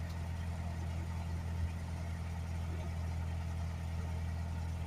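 Narrowboat engine running steadily, a low even hum with no change in pitch.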